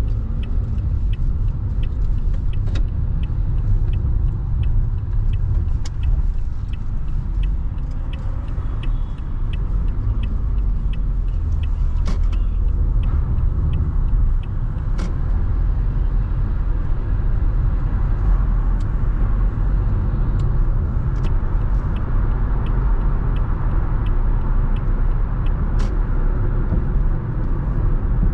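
A car driving on city roads, recorded on a camera aboard: a steady low rumble of road and wind noise, with a faint, evenly spaced ticking over it.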